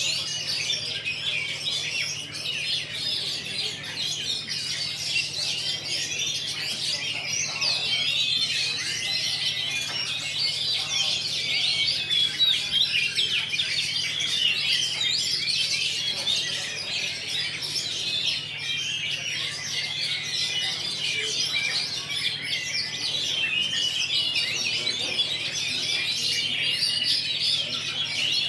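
Oriental magpie-robins (kacer) singing together in a dense, unbroken chorus of rapid chirps and whistles, over a faint steady low hum.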